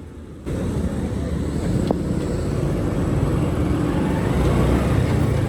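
Motorcycle riding noise: a steady low engine and wind rumble that starts abruptly about half a second in.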